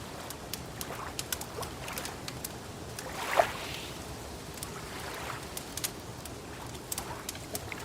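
Small water waves lapping with soft splashes, under scattered sharp crackles and pops from a wood fire. One louder lap comes a little past the middle.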